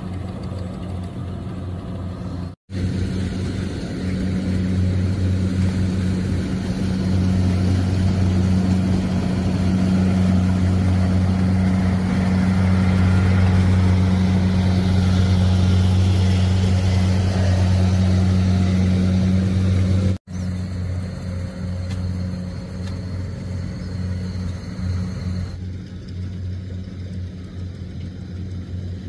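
Rice combine harvester running steadily with a deep engine hum and a rush of machinery noise over it, louder through the middle stretch. The sound drops out abruptly twice, about three seconds in and again near two-thirds of the way through.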